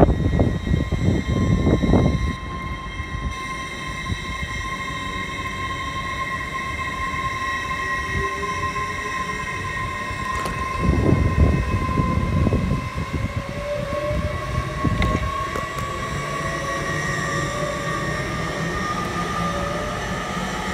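LNER Azuma (Class 801) electric multiple unit passing, with a steady whine of several tones from its traction equipment, some drifting slightly up in pitch, over the rumble of its wheels. Heavier low rumbles come at the start and again about eleven seconds in.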